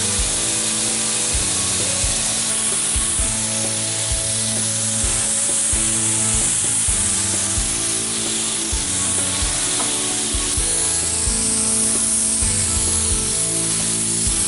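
Background music with a steady beat, over the hiss of an air spray gun that swells and fades with each pass.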